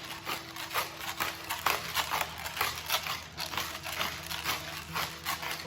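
Pepper mill grinding peppercorns: a quick run of short, scratchy crunches, one after another.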